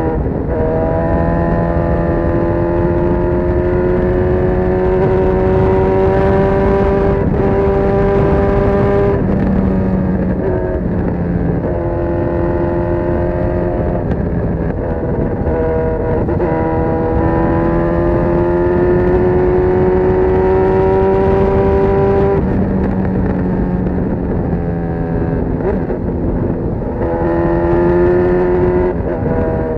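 Honda CB1000R's inline-four engine through a full GP Lougan RS Evolution exhaust, under way. Its note climbs slowly for several seconds at a time and drops back several times, as with gear changes.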